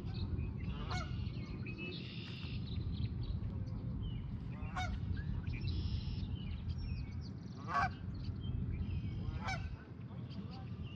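Bird calls: four short, harsh calls spaced a few seconds apart, the loudest about three-quarters of the way through, with two brief buzzy bursts between them, over a steady low rumble.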